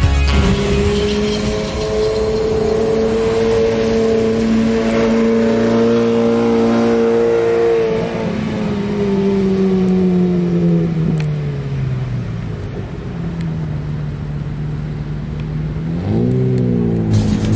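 A car engine running, its pitch holding steady for several seconds and then falling away. It ends with a quick blip of revs near the end.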